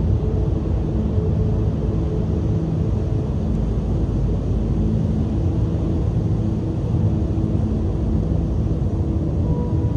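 Strong cold wind off the sea, blowing across the microphone in a loud, steady low rumble, with the wash of waves on the shore mixed in.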